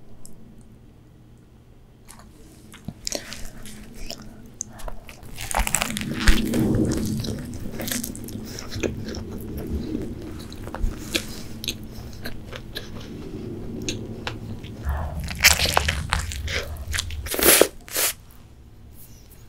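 Biting into and chewing a KFC spicy fried chicken sandwich, the crispy breaded fillet crunching with each bite and chew. The crunching starts a few seconds in and is loudest in a few crunches near the end.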